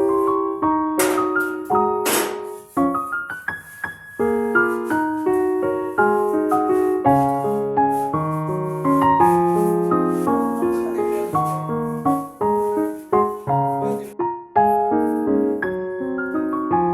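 Background piano music: a gentle melody over a moving bass line, played note by note. Two short bright hits come about one and two seconds in.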